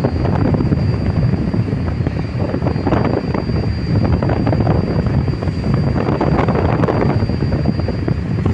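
Strong wind buffeting the microphone over the low, steady rumble of a tugboat running at sea.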